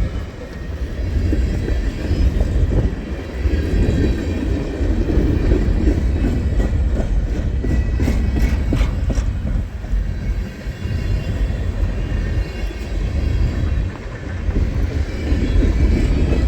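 Freight train's boxcars rolling past, a steady low rumble of steel wheels on rail, with a run of clicks from the wheels over rail joints about halfway through.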